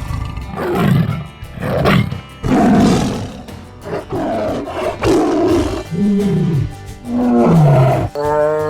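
Tiger roaring and growling in a series of separate calls about a second apart, over background music.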